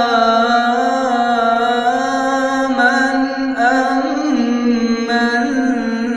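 Male voice singing an Arabic Islamic nasheed, drawing out one long melismatic vowel with slow pitch turns and no clear words.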